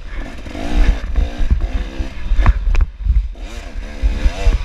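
KTM 250XC-F single-cylinder four-stroke dirt bike engine revving up and down under throttle while being ridden, with a few sharp knocks from the bike over rough ground near the middle and heavy low rumble on the microphone.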